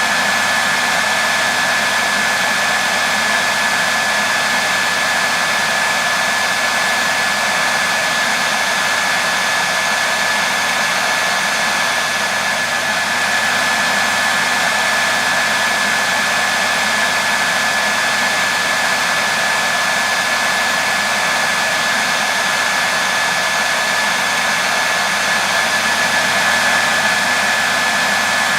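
Hair dryer running steadily: an even rushing of air with a thin steady whine above it, unchanging throughout.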